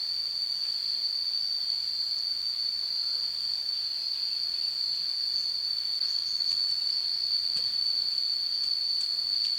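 A chorus of insects droning steadily in one continuous high-pitched buzz, with a few faint ticks over it.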